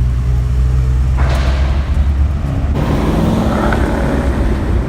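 A car engine running with a deep, steady rumble; a little over halfway through the sound changes abruptly to a rougher, pulsing engine note.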